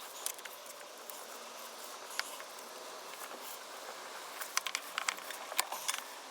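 Light scratching with scattered small clicks and taps of hand work on small parts, over a steady hiss; a quick run of clicks comes about four and a half seconds in.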